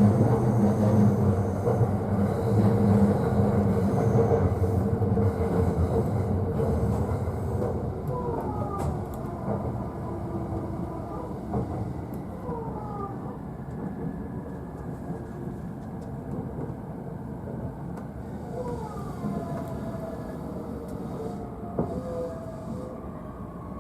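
E531-series electric train heard from an upper-deck seat inside the car, slowing for a station stop. The low running rumble fades over the first several seconds, then a series of falling whining tones sounds as the train brakes.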